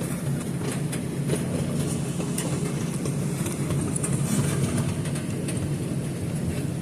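Passenger train running, heard from inside the carriage: a steady low rumble with scattered light clicks and rattles.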